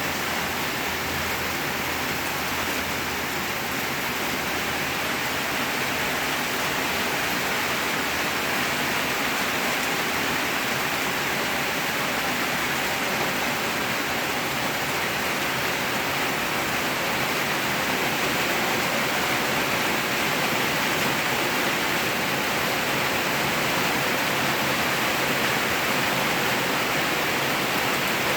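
Heavy rain falling, a steady even hiss that holds at the same level throughout.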